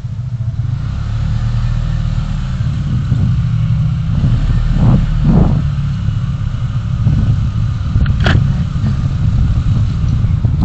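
Road vehicle driving in city traffic, heard as a steady low rumble, with a few short louder noises partway through.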